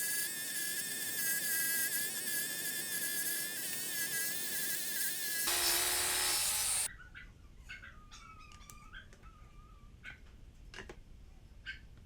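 A small electric power tool whirring steadily with a buzzing pitch. About five and a half seconds in it turns louder and harsher for over a second, then stops abruptly. After that there are only faint, short high chirps and clicks.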